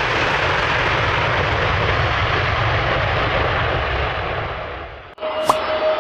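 Jet aircraft engine noise, loud and steady, fading away about five seconds in. Then another aircraft sound starts, a steady whine with two sharp clicks.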